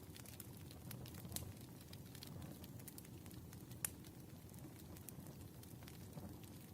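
Wood fire crackling in a fireplace: scattered sharp pops and snaps over a soft, low rumble, with one louder pop a little before four seconds in.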